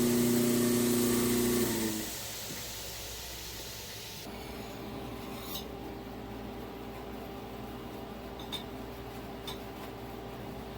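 A power tool's motor hums steadily, then shuts off about two seconds in. After that comes a quieter steady rubbing noise with a few light clicks.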